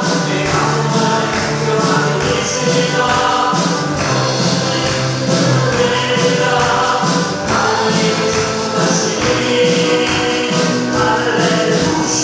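Church praise team performing a Korean gospel praise song: voices singing together over a band with a steady beat.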